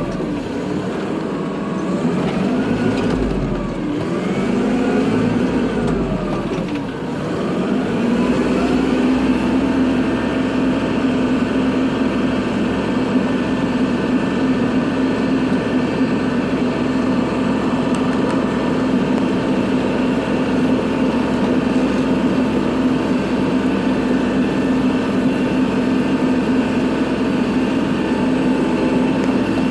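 Kubota tractor engine running under load while plowing snow. Its pitch rises and falls a few times over the first seven seconds, then holds steady.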